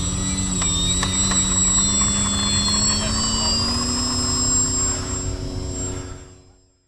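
Electric brushless motor and propeller of a Freewing Spacewalker RC airplane running under power, a steady whine whose pitch creeps slowly upward. It fades out about six seconds in.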